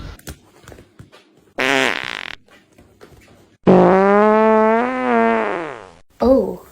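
Fart sound effect: a long, drawn-out, buzzy fart of more than two seconds that wavers slightly and falls in pitch as it ends. It comes after a shorter buzzy sound and is followed by a brief pitched sound near the end.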